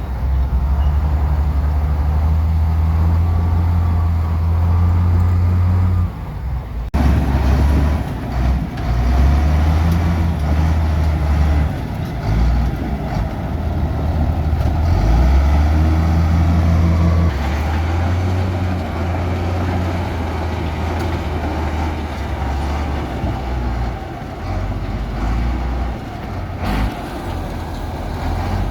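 Heavy diesel earthmoving machinery, a bulldozer working with a dump truck, running under changing load: the deep engine note steps up and down, over a broad clattering noise. There is an abrupt break about a quarter of the way in.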